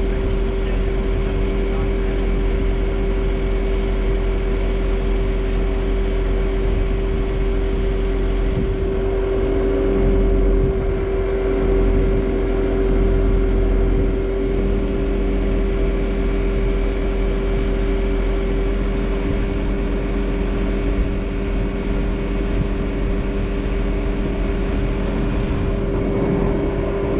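Bobcat S650 skid steer's diesel engine running steadily at working throttle with a constant whine, getting a little louder for a few seconds around the middle.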